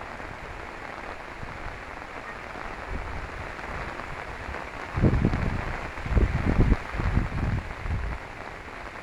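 Rain falling steadily on a river, with gusts of wind rumbling on the microphone from about five seconds in.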